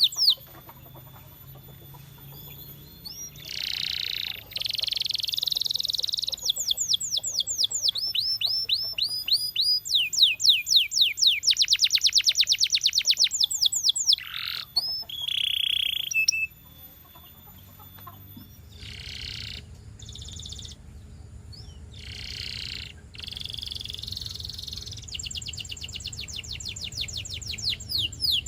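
Canary singing: phrases of rapid trills made of fast-repeated sweeping notes, alternating with harsher buzzy bursts and short pauses, with a quieter stretch a little past halfway.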